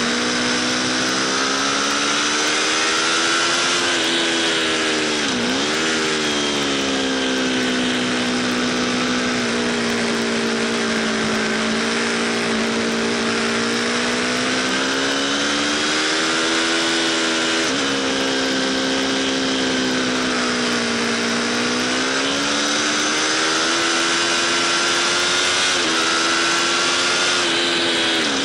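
Aprilia RSV4 Factory's 1000 cc V4 engine running hard under load, its pitch climbing steadily through the revs. About five seconds in, the pitch dips sharply and climbs back. Later, two sudden drops in pitch mark upshifts.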